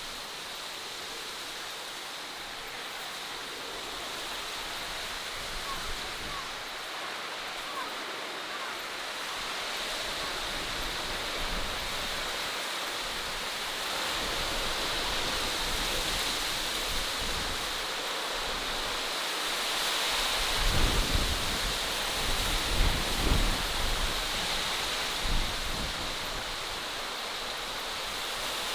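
Outdoor nature ambience: a steady rushing hiss, with wind buffeting the microphone in irregular low rumbles from about two-thirds of the way in.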